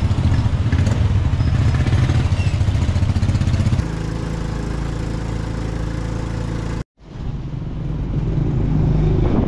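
Small motorcycle engine running close by, a loud, steady low drone with a fast pulse. The sound cuts out for an instant about seven seconds in, then comes back.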